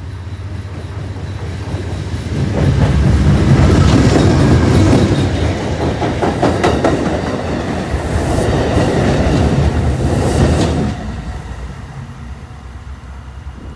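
Shore Line East commuter train passing close by, its wheels clacking over rail joints. The noise rises sharply about two and a half seconds in and drops off suddenly just before eleven seconds as the last car goes by.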